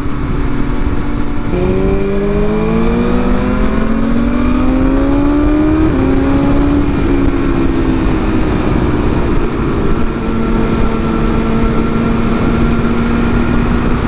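Sport bike's inline-four engine pulling hard, its note climbing for several seconds, then a gear change and the note easing off to hold a steady cruise. Wind rushes over the microphone throughout.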